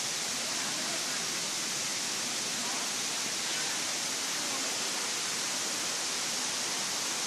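Waterfall water rushing in a steady, even wash of noise.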